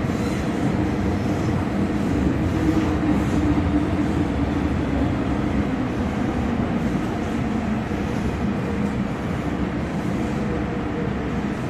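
MTR Kwun Tong Line M-Train running steadily, a continuous noise of wheels on rails and traction equipment with faint steady tones.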